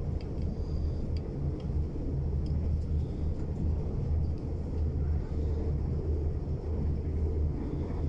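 Interior of a passenger train carriage at speed: a steady low rumble of the wheels on the track, with a few faint ticks.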